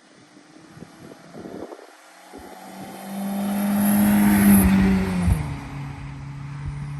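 Audi A4 (B6) with stock exhaust driving past: its engine note builds over a few seconds, is loudest about four and a half seconds in, then drops in pitch as it goes by and fades.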